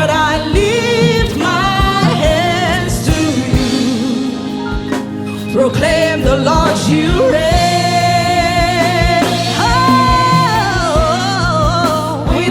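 Gospel worship song: a singer draws out long, wavering sung lines over a band with a steady beat, holding notes in the second half.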